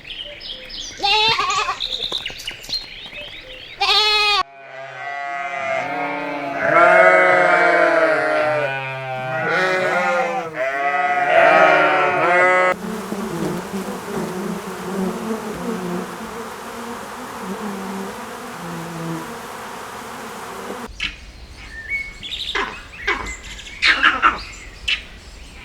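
Bleating from sheep or goats, first single calls and then several animals bleating over one another, with a wavering pitch. About halfway through this gives way to a steady rushing noise with low tones under it, and near the end short chirps and clicks follow.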